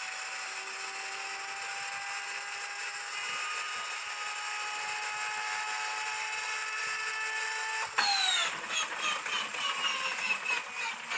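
Inertia starter of an An-2's ASh-62IR nine-cylinder radial engine winding up its flywheel with a slowly rising whine. About eight seconds in it is suddenly engaged: the whine drops in pitch and the engine is cranked over in a fast run of regular beats without catching.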